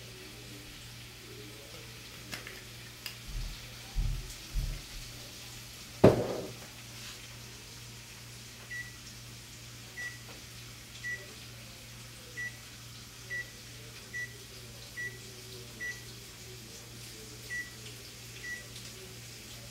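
About ten short high beeps, irregularly spaced about a second apart, as buttons are pressed on a kitchen appliance's keypad, over a steady low hum. Before the beeps come a few knocks and one sharp clang of cookware, the loudest sound, about six seconds in.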